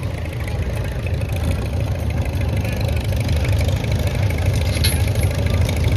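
Antique farm tractor engine running steadily with a deep, even throb, growing slightly louder.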